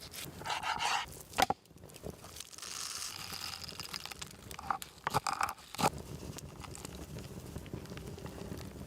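Rustling, crinkling handling noises with several sharp knocks or clicks, one about a second and a half in and a cluster around five to six seconds in, over a steady low background.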